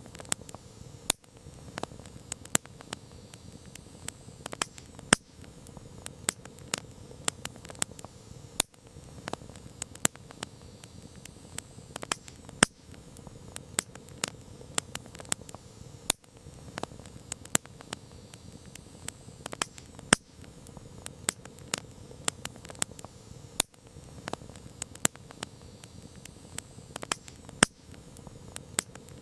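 Campfire burning, with frequent sharp crackles and pops, several a second, over a low steady rush of the flames.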